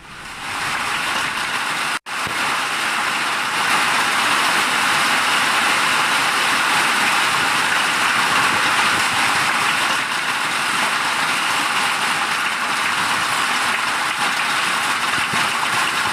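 Heavy rain falling: a loud, steady hiss that drops out for an instant about two seconds in.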